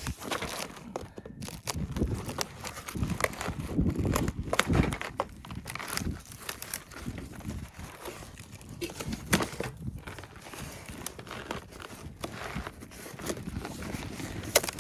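Irregular crinkling and rustling with many small clicks and knocks, as of material and gear being handled.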